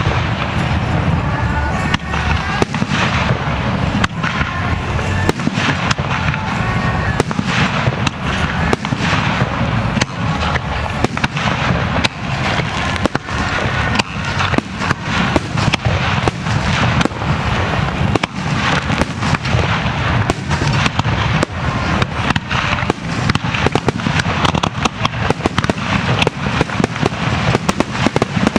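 A starmine fireworks barrage: shells bursting in rapid succession, several a second, with crackling, growing denser near the end.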